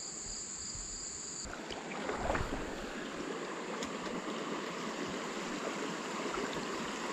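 Creek water running. Insects trill in two steady high tones for the first second and a half, then cut off suddenly, after which the flowing water is fuller, with a brief louder swell about two seconds in.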